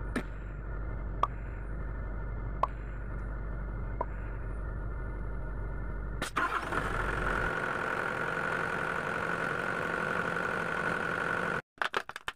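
Sany SY75C excavator's diesel engine running steadily, with a few sharp clicks in the first seconds, then picking up to a louder, higher-power drone about six seconds in. The sound cuts off suddenly near the end.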